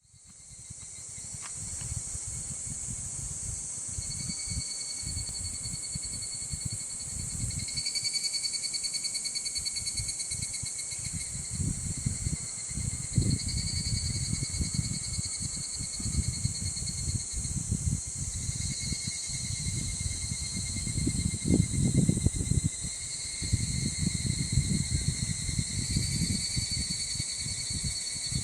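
A steady, shrill chorus of summer insects, a pulsing trill under a continuous high hiss, fading in at the start. Wind buffets the microphone in low rumbling gusts, strongest a little after the middle.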